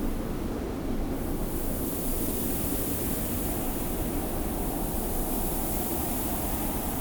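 Steady desert wind with a low rumble and a hiss of blowing sand; the high sand hiss swells up about a second and a half in and then holds.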